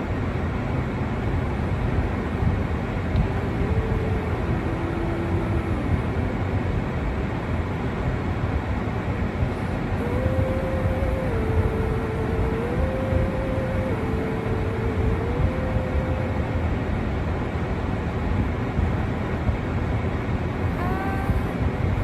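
Steady low rumbling outdoor noise, with a faint tone of held notes stepping up and down a little, once early and again in the middle.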